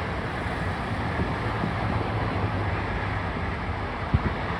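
Steady outdoor rumble with wind on the microphone, and two short, dull low thumps about four seconds in, typical of distant fireworks bursting.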